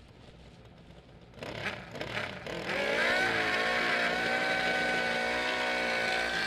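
Pro Stock drag motorcycle engine blipped a few times, then revved up sharply and held at high, steady revs for about four seconds before dropping off.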